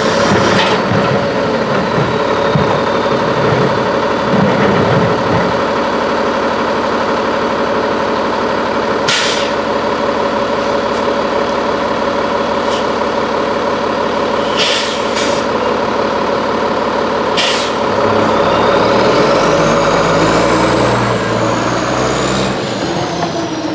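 Freightliner Condor garbage truck with an Amrep MSL body running with a steady engine hum, its air brakes letting out several short hisses. Near the end the engine works harder and a high whine rises and then falls.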